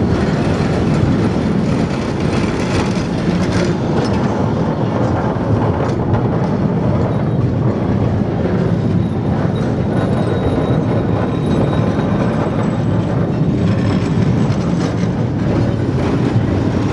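Durango & Silverton narrow-gauge train running on the rails: a steady, loud rumble and clatter of wheels.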